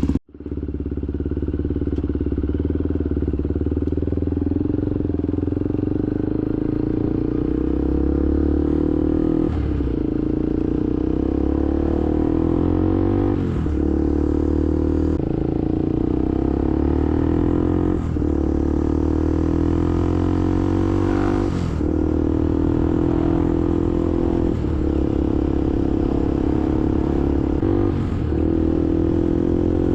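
Honda XR250R's air-cooled single-cylinder four-stroke engine idling steadily with small dips every few seconds. It runs smoothly after a carburettor rebuild, its idle just set a little lower.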